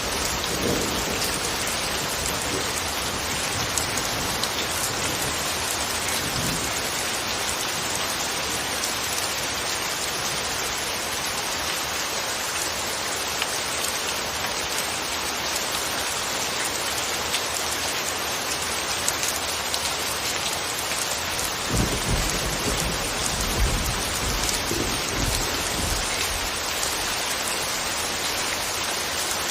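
Steady, soft rain falling, an even hiss of many drops. A low rumble of thunder comes in about two-thirds of the way through and lasts a few seconds.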